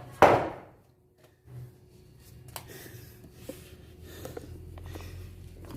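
A single heavy thump, as a heavy piece of freshly cut hardwood plank is set down, followed by faint scattered knocks and handling sounds over a low hum.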